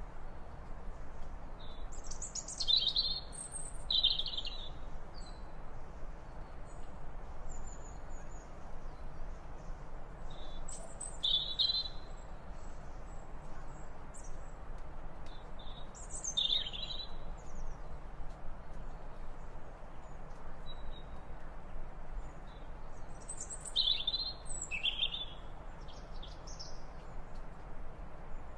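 Wild birds calling: short high chirps and call phrases in bunches every several seconds, over a steady faint outdoor background hiss.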